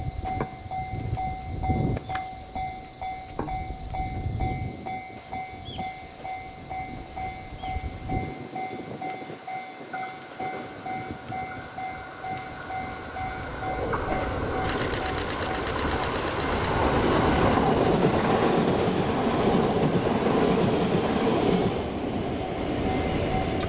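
An electric train passes, growing loud about fourteen seconds in, its wheels clacking rhythmically over the rail joints. A steady repeating ringing signal sounds underneath for most of the time.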